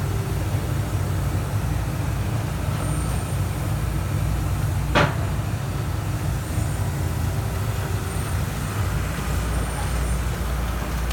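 Heavy demolition machine's diesel engine running steadily during a house demolition, with a single sharp crack about five seconds in.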